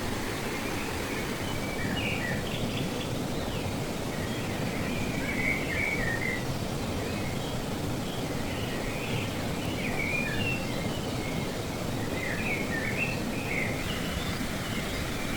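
Steady rush of flowing river water, with birds chirping in short calls scattered throughout.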